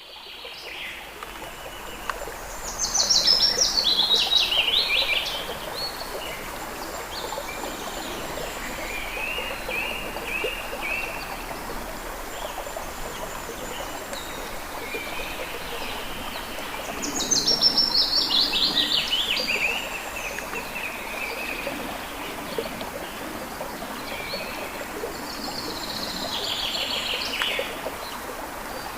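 A songbird singing a fast trilled phrase that falls in pitch, three times with long gaps, and softer chirps in between. Under it runs a steady rushing background noise.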